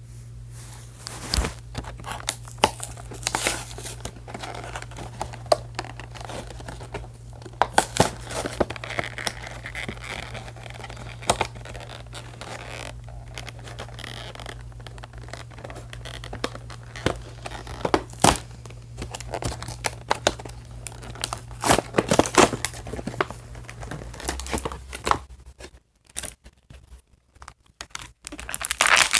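Doll packaging being opened by hand: cardboard and plastic tearing and crinkling, with irregular clicks and rustles.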